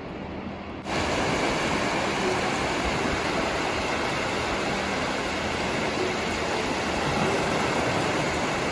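Food frying in hot oil, a loud steady sizzle that starts suddenly about a second in.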